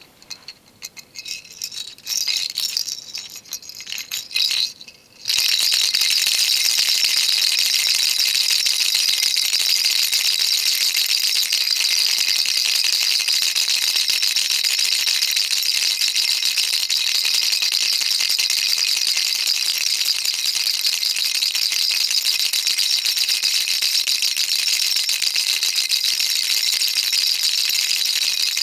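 Baby rattle being shaken: a few separate, uneven shakes over the first five seconds, then continuous steady rattling from about five seconds in.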